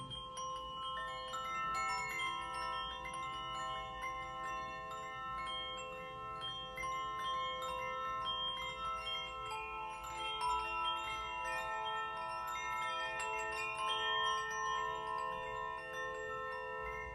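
Clear metal notes struck one after another and left ringing, many overlapping into a continuous shimmering wash of chime tones.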